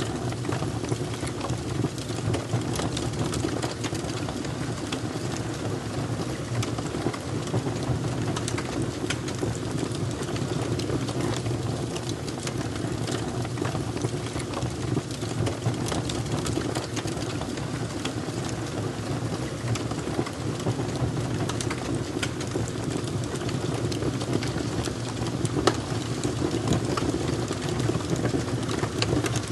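Wood fire burning with a steady low rumble and frequent small sharp crackles and pops scattered throughout.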